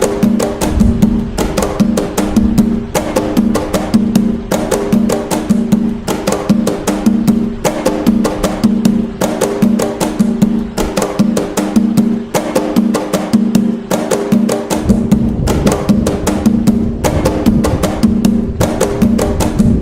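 Atabaque hand drums playing the nagô rhythm (toque de nagô) of Umbanda: a fast, steady pattern of pitched drum strokes, several a second, without a break.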